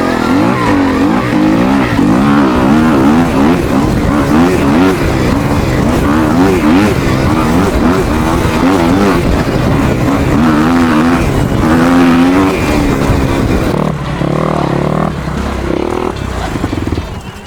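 Kawasaki KX250X four-stroke single-cylinder dirt bike engine at full throttle in a drag race. Its pitch repeatedly climbs and drops as the rider works through the revs. It settles lower about fourteen seconds in and falls away near the end.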